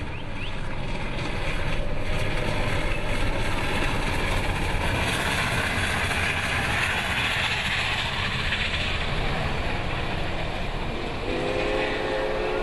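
A train running close by, a steady rush of wheel-on-rail noise that grows brighter in the middle. Near the end a train horn starts sounding, several steady tones together.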